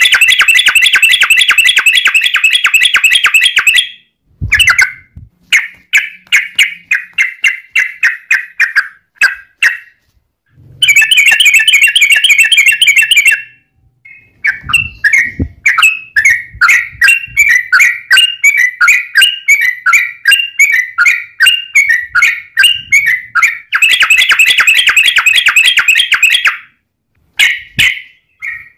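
Yellow-vented bulbul (trucukan) singing loudly: rapid rattling trills of repeated notes in bursts of a few seconds, at the start, in the middle and near the end, with slower runs of separate chirps between.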